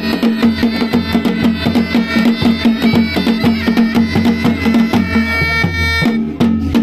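Pahari band music: a mashak been (bagpipe) plays a melody over its steady drone, with dhol and nagara drums beating a fast, dense rhythm. The pipe melody breaks off briefly near the end while the drone and drums carry on.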